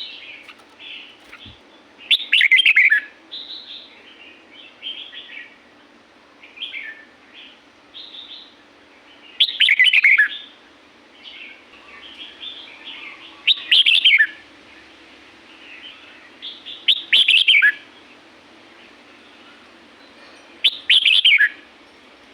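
Red-whiskered bulbul singing: five loud, short warbling phrases that fall in pitch, coming every three to four seconds, with quieter chirps between them.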